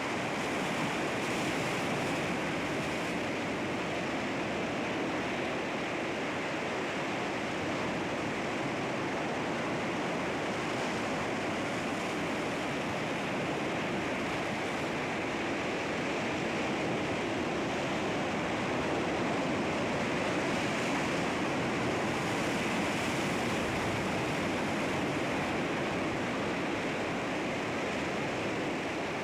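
Sea waves breaking and washing over rocks, a steady surging rush of surf with gentle swells in level.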